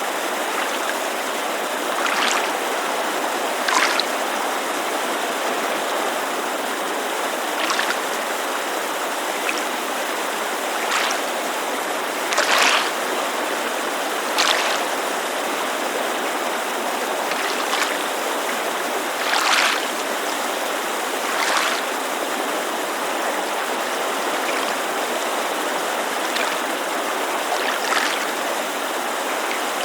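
Steady rushing white noise of a mountain creek, with small splashes of lake water lapping against the shore every couple of seconds.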